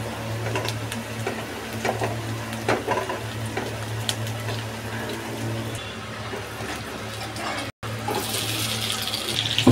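Sliced onions frying and sizzling in a non-stick pan while a plastic spatula stirs and scrapes them, with small clicks, over a steady low hum. Near the end the sizzle turns louder and brighter as tomato pieces drop into hot oil.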